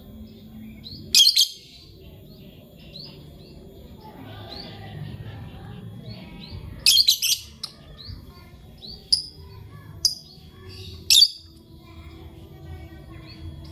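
Lovebirds chirping: a steady run of soft, short chirps, broken by loud, shrill chirps about a second in, a cluster around seven seconds, and a few more near the end.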